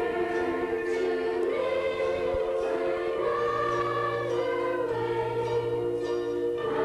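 A youth choir singing, with long held notes that change pitch every second or so.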